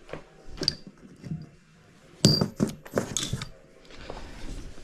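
Small metal bicycle parts clinking and clicking as they are handled and fitted during reassembly of an ebike's front fork and headset, with the sharpest clinks a little over two seconds in and again around three seconds.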